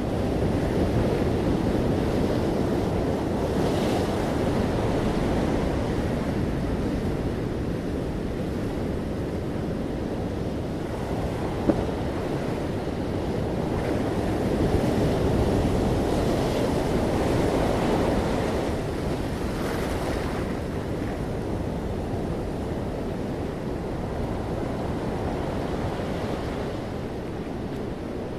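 Ocean surf: waves breaking and washing in a continuous low rush that slowly swells and eases, with wind noise on the microphone.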